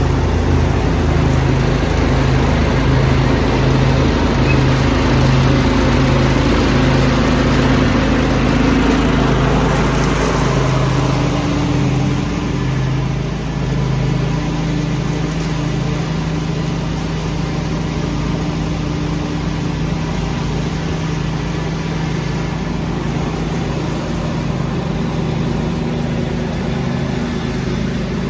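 Lawn tractor engine running steadily under load, with the rushing air of a leaf vacuum over it. The rushing eases off about eleven seconds in while the engine keeps running.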